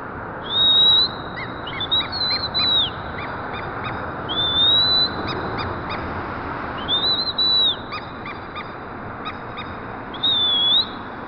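Parrot whistling: five loud whistles that each slide up and level off or fall, spaced a second or more apart, with quick runs of short clipped notes between them.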